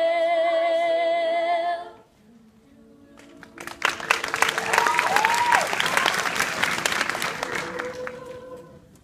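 A choir holds a final sung chord with vibrato that cuts off about two seconds in. After a brief pause, an audience breaks into applause with some cheering, which fades near the end.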